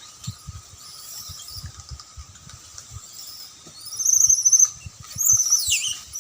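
Monkeys screaming in a fight: high-pitched squealing screams in two bouts, the first about four seconds in and the second about five seconds in, ending in a falling squeal. Soft low thumps and a faint steady tone run underneath.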